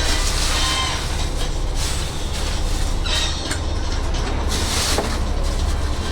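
Diesel railcar idling at a station platform: a steady low engine hum, with a few brief hissing rushes over it.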